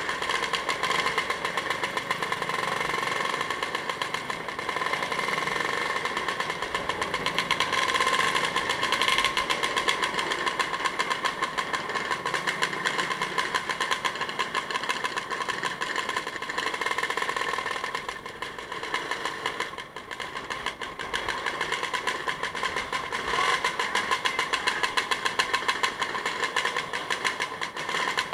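A vehicle engine running steadily on the move, with a brief drop in level about two-thirds of the way through.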